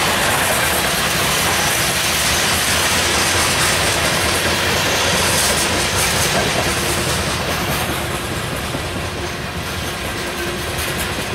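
Coal hopper cars of a freight train rolling past: steady noise of steel wheels running on the rails, easing a little in loudness toward the end.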